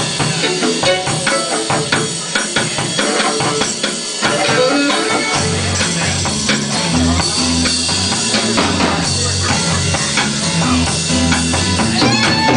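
Live rock band playing the instrumental intro of a funky song: drum kit and tambourine keep a steady beat, and a low bass line comes in about halfway through.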